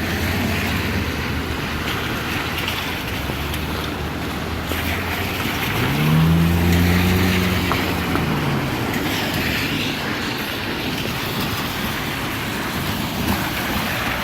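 Steady rushing noise with a low rumble underneath; about six seconds in, a motor vehicle passes, its engine note rising and then falling over about two seconds.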